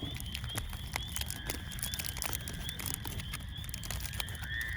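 Crickets chirping in a steady, regular rhythm a few times a second, with a steady high insect trill joining about a second in and a louder one near the end. Scattered light clicks and crinkles of items being handled.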